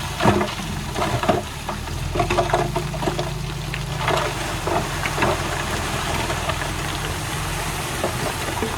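Diesel engine of a heavy earthmoving machine running steadily, with irregular clanks and rattles over the first five seconds or so that then thin out.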